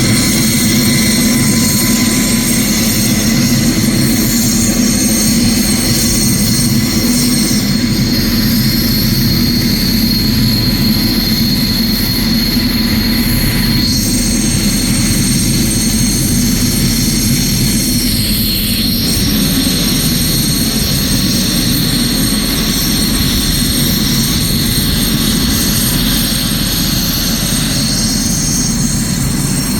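Single GTD-350 turboshaft engine of a homemade Mi-1-based helicopter running under power with its rotor turning: a steady high turbine whine over a loud low drone. About two-thirds of the way in, the low drone eases down a little in pitch.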